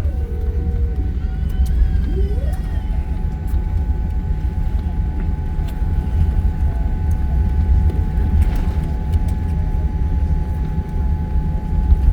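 Steady low rumble in the cabin of a Boeing 787 Dreamliner rolling on the ground after landing. A faint whine drops in pitch right at the start, and another rises about two seconds in.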